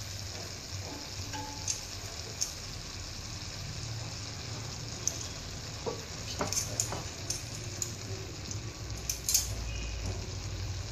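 Prawns, vegetables and steamed noodles sizzling steadily in a hot wok, with a few short light clicks now and then.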